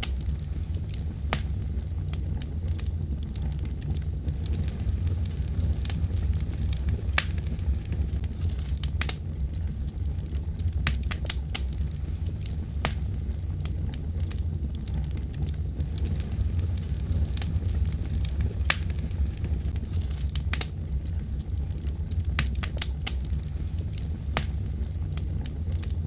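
Fire crackling: irregular sharp pops, some in quick clusters, over a steady low rumble.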